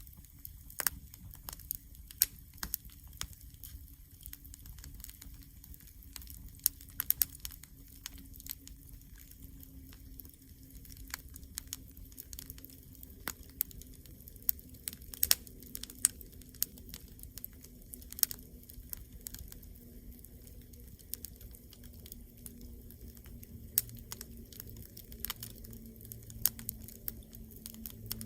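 Wood campfire crackling, with irregular sharp pops and snaps over a low rumble of burning, and a faint steady low hum underneath that sinks slightly in pitch.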